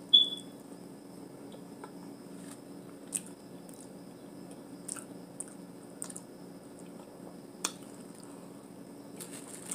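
Mouth sounds of eating seafood boil: a sharp wet smack right at the start, then scattered faint smacks and clicks of chewing. A faint steady hum runs underneath.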